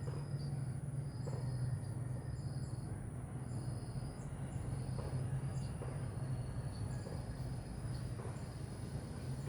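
Insects calling: a steady high-pitched drone, with a second insect trilling in short bursts about once a second. A steady low hum runs underneath.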